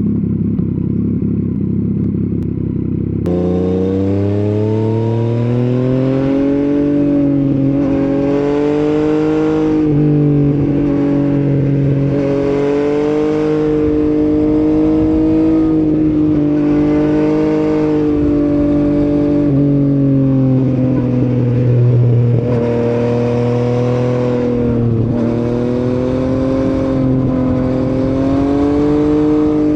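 Yamaha MT-09's CP3 three-cylinder engine under way, its pitch rising and falling again and again with short breaks between, as when accelerating and shifting through the gears. The first three seconds sound muffled before the sound abruptly opens up.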